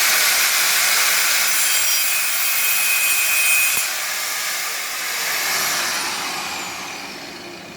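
Angle grinder with a Bosch disc cutting into thin sheet steel for about four seconds, a loud harsh grinding. It is then let off and spins down with a falling whine.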